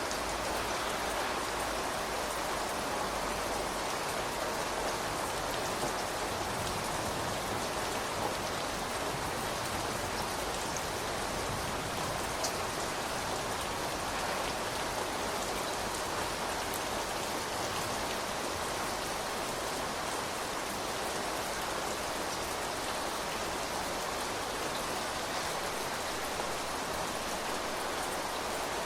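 Steady rain falling and pattering on surfaces, with occasional distinct drops.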